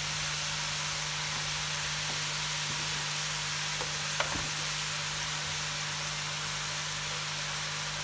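Sliced vegetables sizzling in hot oil in an aluminium wok, a steady hiss under a constant low hum. One light tap about four seconds in.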